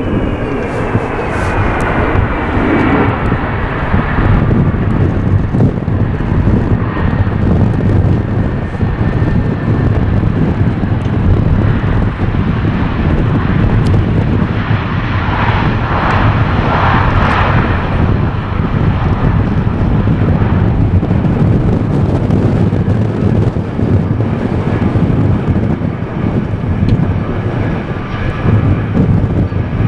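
Boeing C-17 Globemaster III jet engines running, a loud, steady rumble with a faint whine that falls in pitch near the start and swells briefly in the middle.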